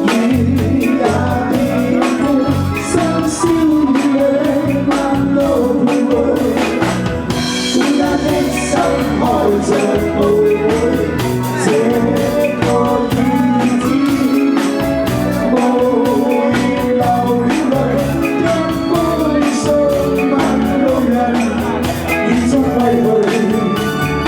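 Live band music: a pop song played on a drum kit and other instruments, with a steady beat.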